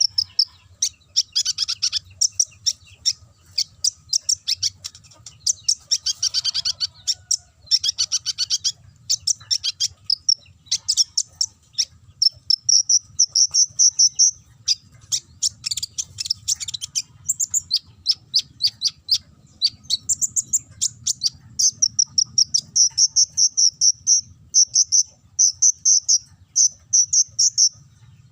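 Kolibri ninja sunbird singing a long, rapid canary-style song: high-pitched chirps, fast trills and short held whistles, one phrase after another with only brief gaps.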